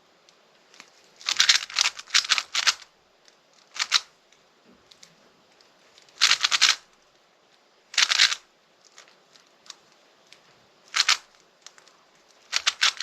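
Plastic speedcube being turned fast, its layers clacking and rasping in several short flurries with pauses of a second or two between them.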